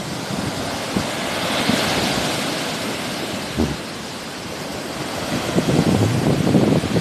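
Sea waves washing onto the shore, a hiss that swells and fades about two seconds in. Wind buffets the microphone in low gusts near the end.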